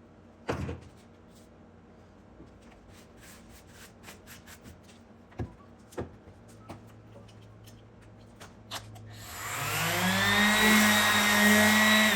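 A few scattered knocks and clicks of handling, then about nine seconds in an electric power-tool motor switches on. Its whine rises in pitch as it spins up, then it runs steadily at full speed with a loud hiss until it is switched off at the end.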